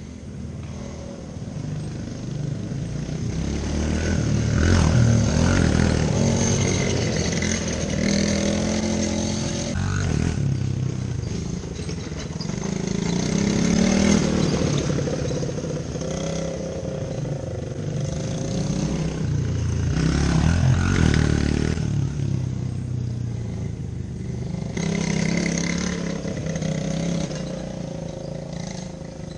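Small off-road vehicle engine revving up and down, growing louder and fading again several times as it rides past.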